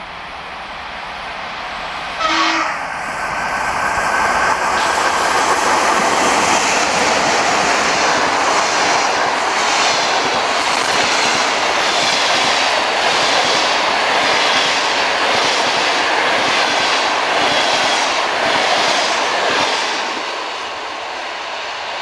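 ChS7 electric locomotive and its passenger coaches passing close by: a brief horn toot about two seconds in. Then comes the steady rolling of wheels on rail, with a regular clickety-clack over the rail joints as the coaches go by, easing near the end as the train draws away.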